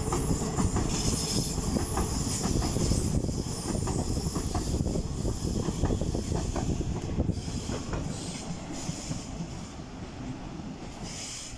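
TransPennine Express Class 802 train running past close by, its wheels clicking over rail joints with a rumble and some high-pitched wheel squeal. The sound fades over the last few seconds as it draws away.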